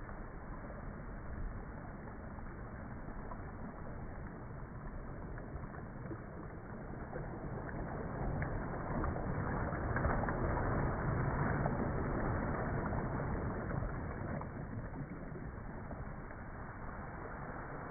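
Sea waves washing in: a steady rush of surf that swells to its loudest about ten seconds in, then eases off.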